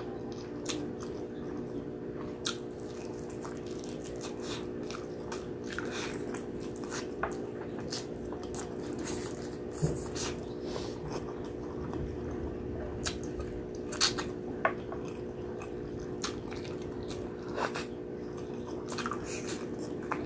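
Close-up mouth sounds of eating braised pork hock with rice by hand: chewing with frequent sharp, wet clicks and smacks, the loudest about ten and fourteen seconds in.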